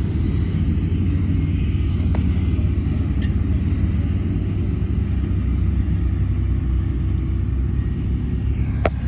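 Heavy diesel construction machinery running with a steady low rumble, with a sharp metallic knock about two seconds in and another near the end.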